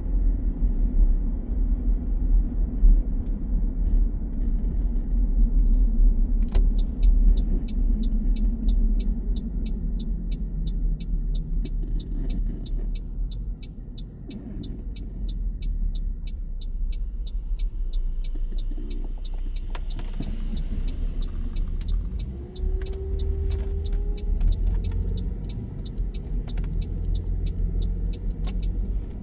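A car running along the road, heard from inside: a steady low rumble of engine and road noise. From about six seconds in, a rapid, even ticking runs for roughly twelve seconds. Near the end a brief rising hum comes in.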